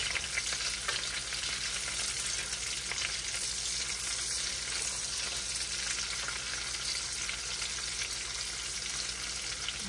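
Egg-dipped, floured chicken tenders sizzling steadily in hot olive oil in a nonstick frying pan, as the pieces are turned over with a fork.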